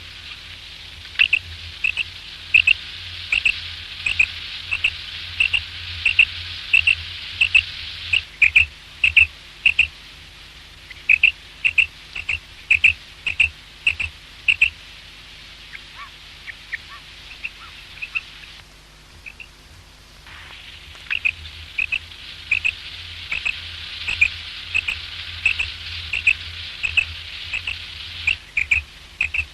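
Common quail calling: a long run of short, sharp, high notes about two a second, thinning to a few scattered notes around the middle before starting up again. A steady low hum and hiss lie underneath.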